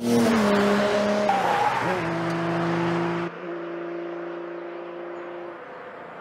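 Cartoon car sound effect of a car speeding off, an engine and rushing road noise starting suddenly over held music tones that step down in pitch. The rush cuts off about three seconds in, leaving quieter sustained tones.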